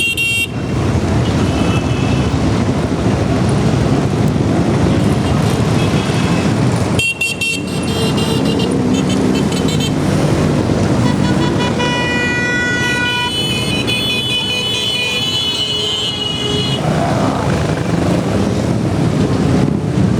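A group of motorcycles running together with a dense engine rumble, and vehicle horns honking over it about halfway through, several tones sounding at once for a few seconds.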